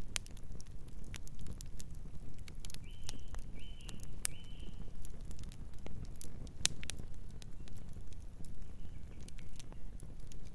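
Wood fire burning, with a steady low rumble of flames and many sharp, irregular crackles and pops. A distant bird gives three short calls in quick succession about three seconds in, and fainter calls near the end.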